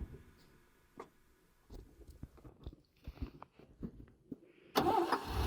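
Mostly quiet, with scattered small clicks and crunches. Near the end a truck engine suddenly comes up loud and keeps running steadily.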